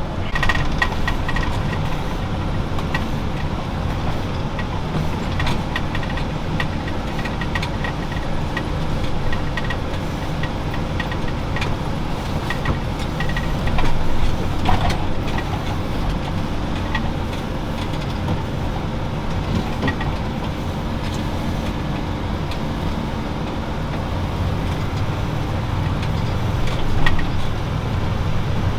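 Valtra tractor's diesel engine running steadily, with scattered short clicks and knocks over it.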